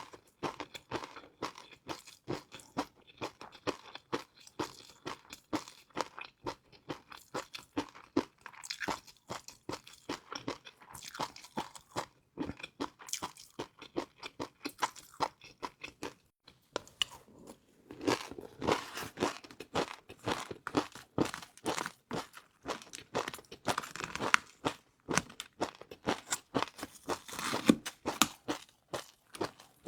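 Close-up crunching and chewing of crispy fried noodles, a fast crackle of bites. The crunching pauses briefly about halfway, then comes back louder and denser.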